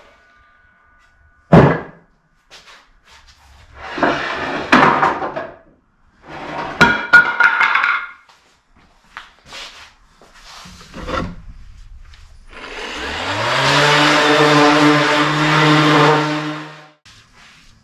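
Woodworking and construction sounds: a sharp knock, then short bursts of scraping and rattling of boards. About thirteen seconds in, a power tool motor spins up, runs steadily for about four seconds, then stops.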